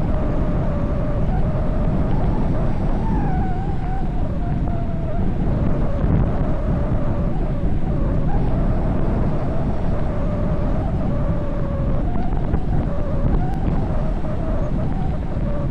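Loud, steady wind rushing over the microphone of a bicycle speeding downhill, with a faint whistle that wavers up and down in pitch.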